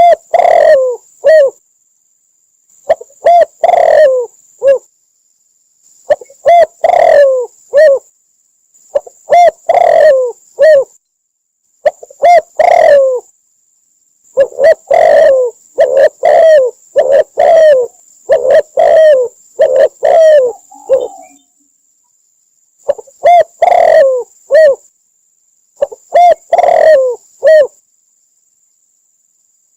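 Spotted dove cooing: phrases of several low coos, repeated about every three seconds, from a recording played as a lure for trapping doves. A faint steady high hiss runs between the phrases.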